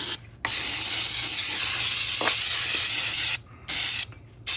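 Aerosol carburetor and choke cleaner spraying in hissing blasts: one long blast of about three seconds, then short bursts with brief pauses between them, flushing out an engine's parts.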